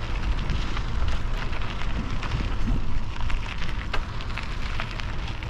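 Steady rush of wind and road noise from a moving bicycle, with heavy low rumble and many small scattered clicks and rattles.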